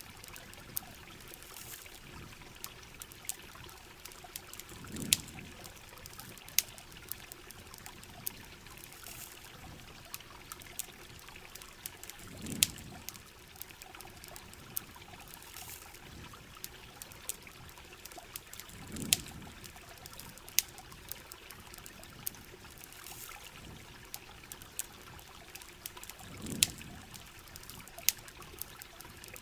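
Steady rain hiss with sharp campfire crackles and pops scattered through it, and a short low swell of trickling water about every seven seconds.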